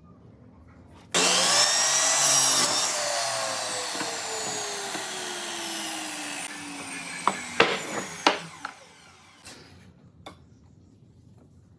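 A power tool's motor is switched on with a sudden loud start, runs up briefly, then winds down, its pitch falling slowly over about six seconds. A few sharp knocks come as it stops, then two light taps.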